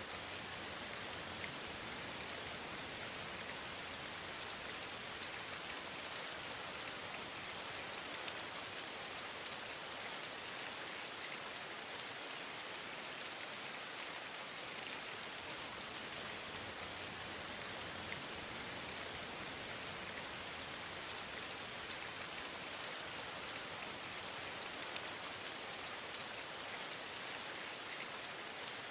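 Steady rain falling, a dense even patter of drops that neither builds nor fades.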